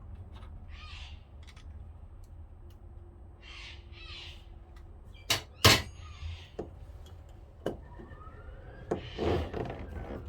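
Metal tools clinking and knocking on a marine diesel's starter motor and its mounting bolts as it is adjusted. There are scattered clicks, two sharp knocks about halfway through, and a cluster of strikes near the end.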